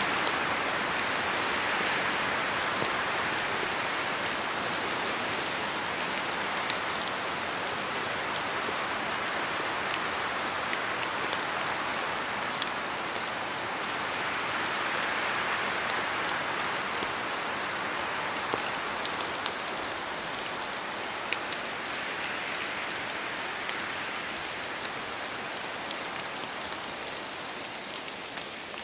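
Steady rain falling, a dense even hiss with scattered close drop ticks, swelling and easing slowly.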